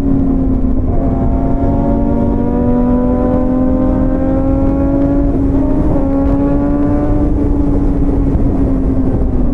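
Motorcycle engine running at riding speed, its note rising slowly for the first half and then holding steady, under heavy wind noise on the microphone.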